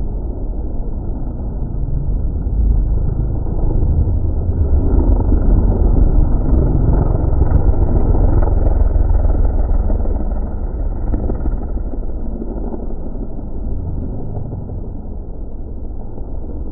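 Race car engines on the circuit, a loud rumble that swells for several seconds as cars come past and then eases off.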